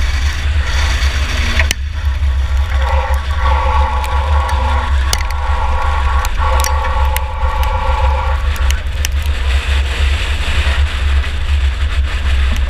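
Onboard sound of a 2004 Chevy Impala enduro car racing: its engine running under load with a heavy low rumble, loose metal rattling and knocking many times, and a steady higher-pitched note from about three to nine seconds in.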